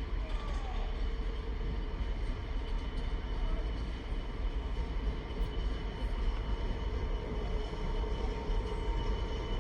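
Class 66 diesel-electric locomotive running as it hauls an intermodal container freight train: a steady low rumble with a constant hum over it, growing slightly louder near the end.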